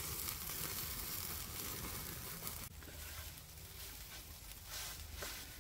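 Hash browns and sausages sizzling in a frying pan and on a grill over a wood fire: a steady frying hiss that drops quieter about two and a half seconds in.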